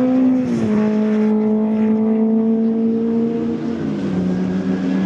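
Racing sports car engine running at high revs, a strong steady note whose pitch creeps up and then steps down sharply twice, about half a second in and again near four seconds.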